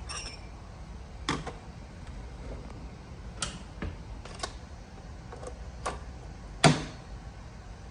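Scattered sharp clicks and knocks of things being handled in a kitchen while coffee is made, about eight in all at irregular spacing, the loudest near the end, over a low steady hum.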